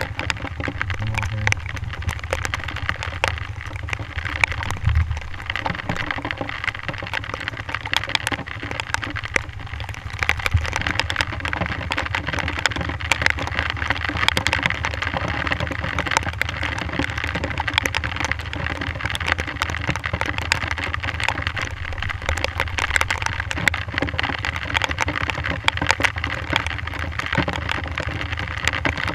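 Rain pattering hard and fast on the camera housing, a dense crackle of drops, over the low, steady running of a Honda CRF450R dirt bike engine.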